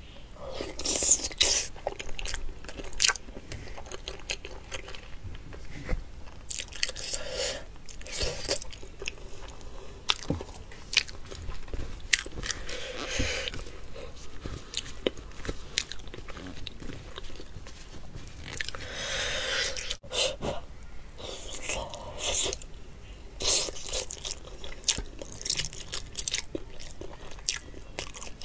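A person biting and chewing soft, fatty braised pork belly, with repeated short mouth clicks and irregular louder bites.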